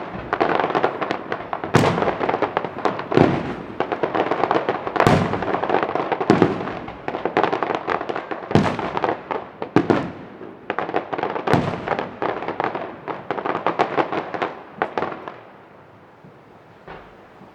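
Fireworks display: aerial shells bursting with a loud bang every second and a half or so, over dense crackling. The barrage dies away about fifteen seconds in, leaving only one faint pop.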